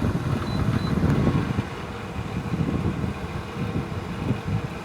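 Wind from two fans at full power buffeting a DJI Mic Mini wireless mic mounted bare, without a deadcat, inside a closed motorcycle helmet: a steady, gusty, fluttering low rumble with a hiss of rushing air over it.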